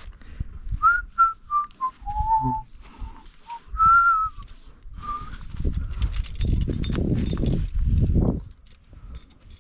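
A person whistling a short tune of clear single notes, stepping mostly downward with one longer low note, for a few seconds. A few seconds of loud rustling and knocking noise follow near the end.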